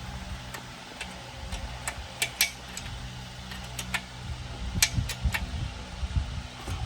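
Irregular sharp clicks and light knocks, about ten of them, over a steady low hum, with a few dull low thumps in the second half.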